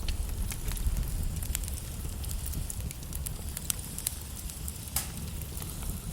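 Wood fire crackling: scattered sharp pops, the clearest about a second and a half in, near four seconds and about five seconds in, over a low steady rumble of burning logs.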